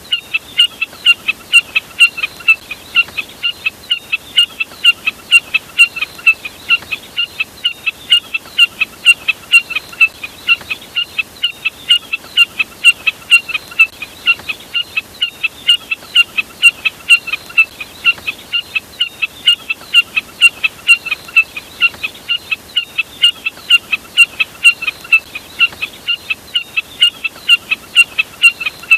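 Looped recording of a bird call, sold as the common jack snipe's (burcet) call for luring: short high notes repeated rapidly and evenly, about three a second, without a break.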